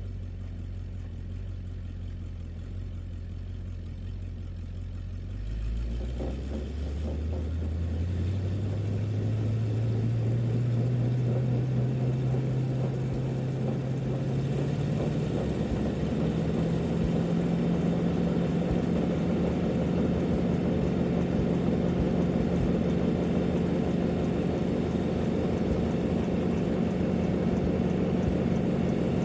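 Old International boom truck's engine idling low, then revving up about six seconds in. The pitch climbs over several seconds to a high, steady run that holds to the end, as for a burnout, with a broad rushing noise that grows with the revs.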